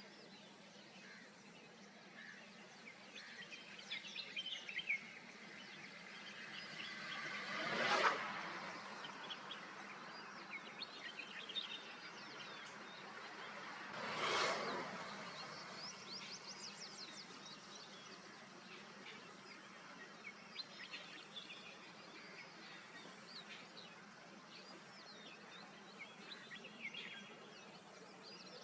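Outdoor ambience with many small birds chirping on and off. Twice, about 8 and 14 seconds in, a louder passing sound swells up and dies away over a couple of seconds.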